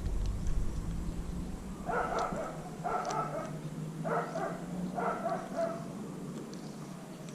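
A dog barking four times, about a second apart.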